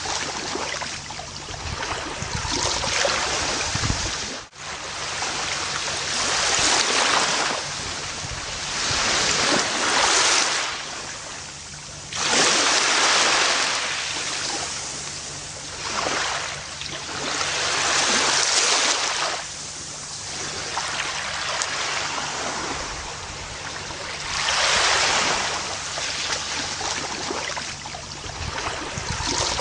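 Gentle ocean surf on a beach, waves breaking and washing up the shore in slow swells of hiss every few seconds, with a brief dip about four seconds in.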